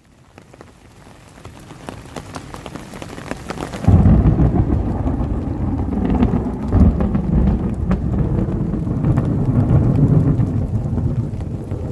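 Rain falling, with the patter of individual drops as the sound fades in. At about four seconds a loud low rumble suddenly joins it and keeps on, with drops still striking.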